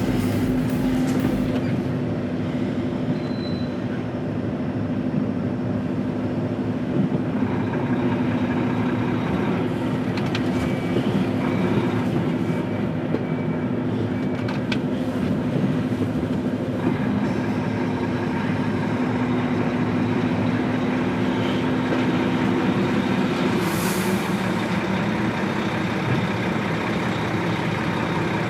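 Volvo FH 540 truck's diesel engine running under load as it manoeuvres slowly, heard from inside the cab as a steady drone with a held hum. The hum changes about 23 seconds in.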